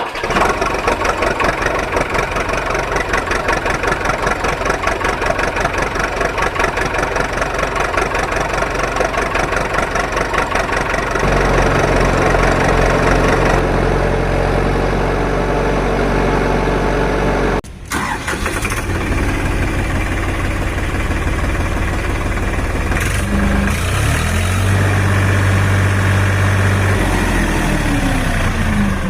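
Heavy vehicle engine sound effects: an engine chugging with a fast, even pulse, switching abruptly to a steadier low drone, cutting out for a moment, then running again with revs rising and falling near the end.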